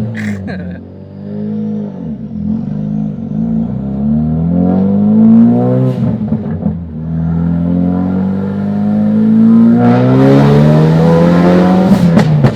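Tuned Ford Focus RS four-cylinder turbo engine under hard acceleration, heard from inside the car: the revs climb, drop at an upshift about six seconds in, then climb again through the next gear. A few sharp exhaust pops near the end.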